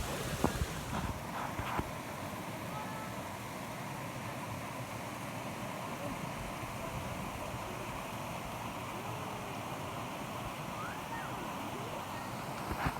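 Steady rushing water of a river and waterfall, an even unbroken roar.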